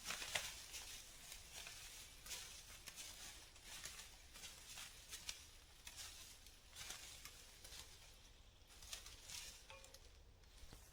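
Faint, scattered light rustling and ticking, a few soft crackles every second or so, with no steady sound under it.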